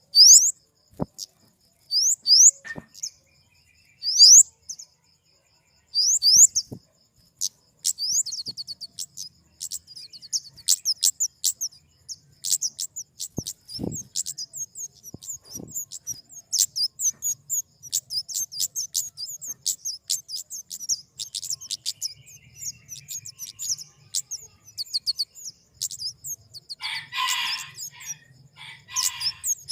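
A flowerpecker calling. It gives sharp, high, falling chirps about every two seconds at first, then a fast, busy run of high ticking chirps. Near the end come two short scratchy bursts.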